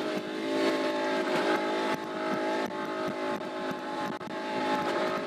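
Speedboat engine running steadily at speed, its even hum over a rush of wind and water noise.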